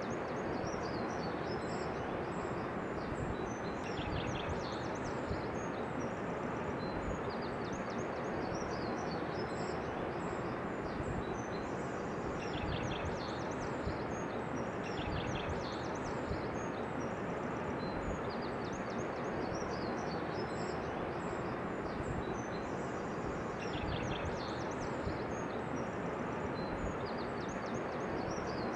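Many small birds chirping and trilling over a steady, even rushing background noise.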